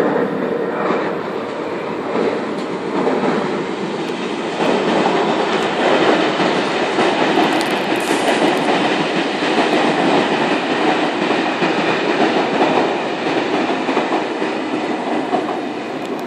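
A Sydney Trains K-set double-deck electric train passing through the station, a steady train noise that eases off near the end.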